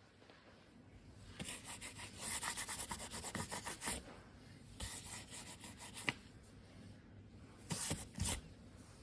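Refrigerator surface being scrubbed by hand, with a run of quick back-and-forth rubbing strokes followed by a few shorter bursts of rubbing near the middle and end.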